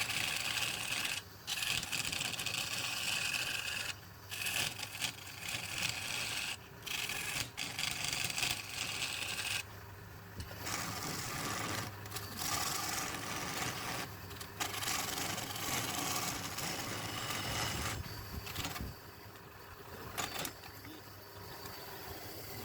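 Wood turning on a lathe being sanded or rubbed with abrasive, a hissing scrape in stretches that stop briefly every few seconds, over the steady low hum of the lathe. It gets quieter near the end.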